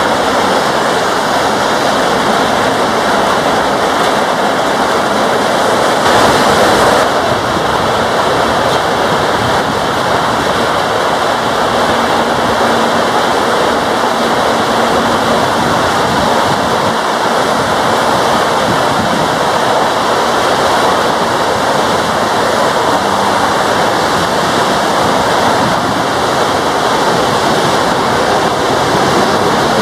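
Heavy tropical rain falling, a dense steady hiss that swells briefly about six seconds in.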